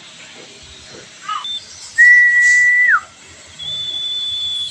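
Common iora (cipoh) giving long, pure whistled notes: a short rising note, then a loud steady whistle held for about a second that drops at its end, then a second, higher steady whistle near the end.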